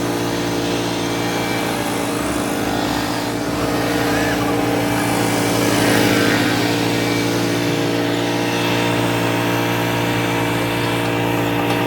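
Riding lawn mower engine running at a steady, unchanging speed.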